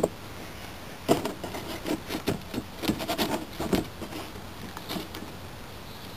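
Masking tape being peeled off a freshly spray-painted minibike fender, with irregular small knocks, rubs and scrapes as the fender is handled.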